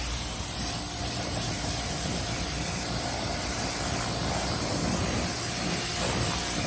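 A motor running steadily, a constant hum under an even hiss.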